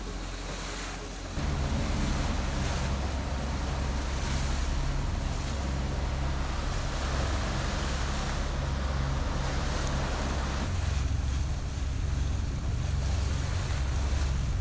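Wind buffeting the microphone over the wash of waves and water on a sailboat under way. The low wind rumble gets suddenly louder about a second and a half in.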